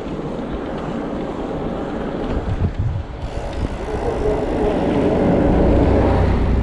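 Low, steady rumble of wind buffeting the microphone, getting stronger near the end.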